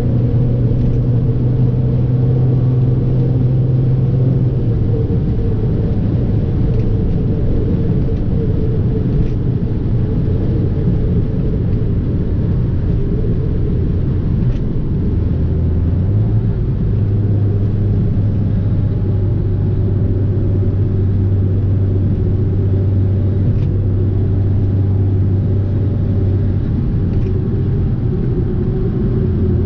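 Fiat 500 Abarth's turbocharged 1.4-litre four-cylinder engine pulling the car along at a steady speed with a constant drone. Its note drops about five seconds in, shifts again about halfway and falls once more near the end.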